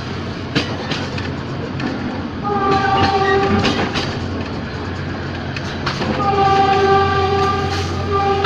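Passenger train running over the rails with sharp wheel clicks and a steady low hum. A horn sounds twice: a short blast about two and a half seconds in, and a longer one from about six seconds in to the end.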